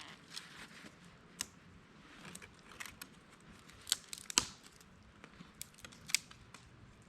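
Scattered sharp clicks and taps, about half a dozen over several seconds, the loudest two close together a little past the middle, with quiet between.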